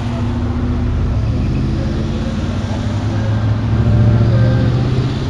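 Engines of classic Glas coupés driving past one after another, a steady low engine hum that swells about four seconds in as a car passes close.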